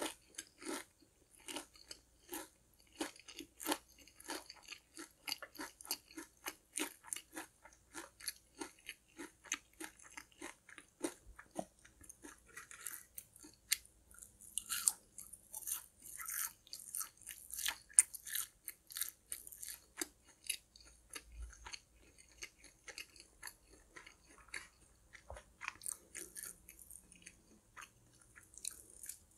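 Close-miked chewing of crunchy fried food: a steady run of crisp crunches, about two to three a second, with a stretch of louder, sharper crunches midway through.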